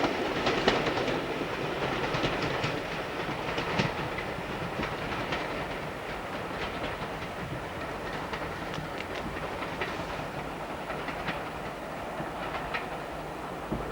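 Train running past on jointed track, its wheels clicking over the rail joints, the sound fading away steadily as it draws off.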